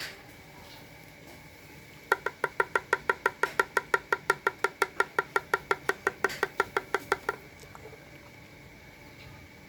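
A dove pecking fast at its feed: a run of about thirty sharp, ringing taps, roughly six a second, lasting about five seconds and starting about two seconds in.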